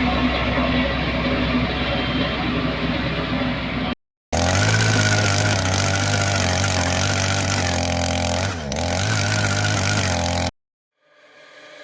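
Engines of road-construction machinery running in two clips cut together. First a rough, noisy engine sound, then after a brief break a steadier low engine drone that dips once in pitch and recovers. It stops abruptly near the end.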